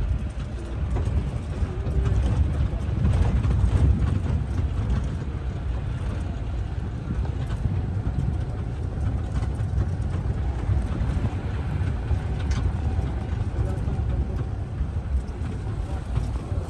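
Jeep driving along a rough off-road trail: a steady, uneven low rumble of vehicle and wind noise on the microphone.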